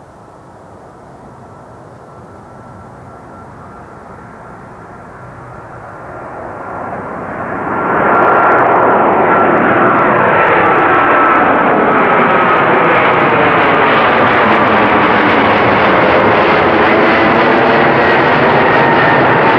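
An aircraft passing close by. It grows steadily louder until about eight seconds in, then stays loud, with a steady whine slowly falling in pitch over the roar.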